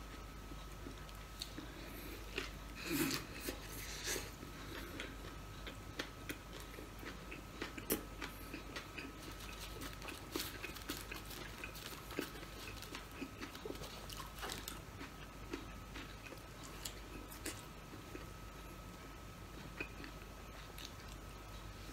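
A man chewing a burger close to the microphone: soft wet mouth smacks and small crunches, with a couple of louder bites about three and four seconds in.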